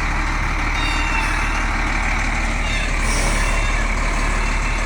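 Heavy diesel engine running steadily, a wheel loader working close by.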